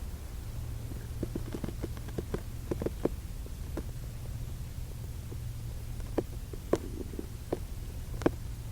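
Steady low hum of room tone with scattered faint clicks and small crackles, thickest in two patches, one after about a second and one after about six seconds.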